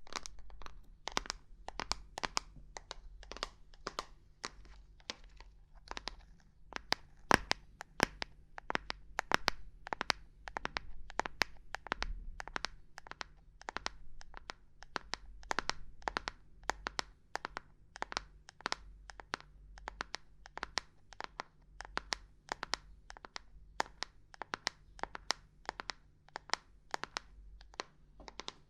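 Fingers or a hand tapping and knocking on assorted hard objects in irregular, crisp taps, a few a second, with one sharper knock about seven seconds in.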